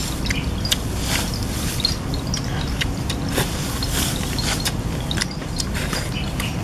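Close-up eating sounds: a person chewing roast chicken torn off by hand, with irregular wet clicks and lip-smacks, over a steady low background rumble.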